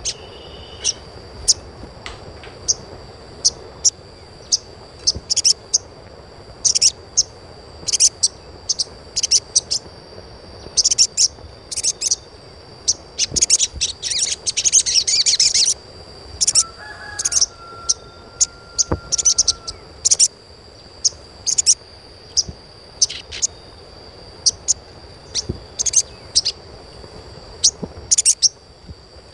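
Little spiderhunter (sogon) chirping: many short, sharp, high calls in irregular runs, with a dense burst of rapid chirping about halfway through. A brief lower steady whistle follows shortly after.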